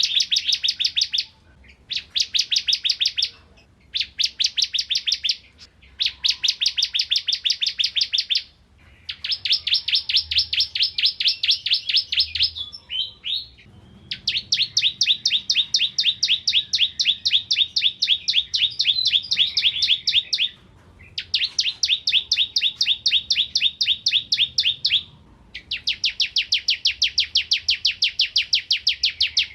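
Ciblek kristal (a bar-winged prinia) singing hard in repeated phrases. Each phrase is a fast, even train of sharp, high-pitched chirps, about seven a second. The phrases last from about a second to six seconds, with short pauses between them.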